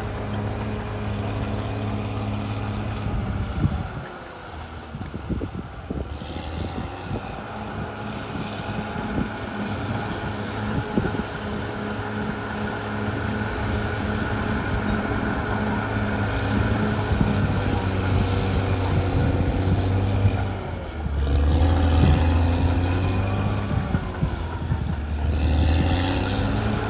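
Caterpillar D6R XL bulldozer's diesel engine running under working load, with many clanks and knocks. The engine note drops about four seconds in, then picks up again, and shifts once more around twenty seconds later.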